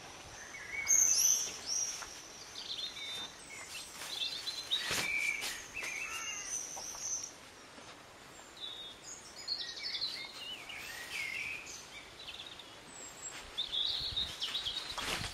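Birds singing: a string of short, varied chirping phrases throughout, with a thin steady high tone under the first half.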